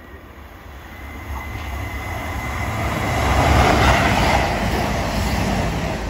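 CrossCountry Voyager diesel multiple unit passing close along the platform: wheels on the rails and underfloor diesel engines swell to a peak about four seconds in, then fade as it goes by. A faint steady high tone sounds as it approaches.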